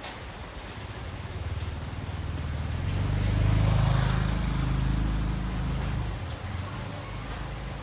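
Steady rain falling, with a low rumble that swells up about two seconds in and fades away again a few seconds later.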